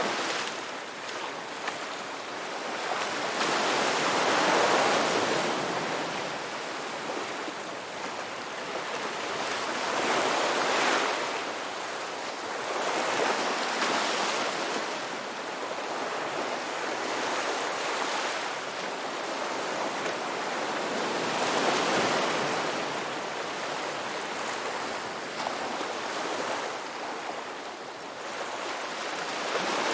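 Sea waves breaking on a shore, the surf swelling up and falling back every few seconds over a steady wash of water.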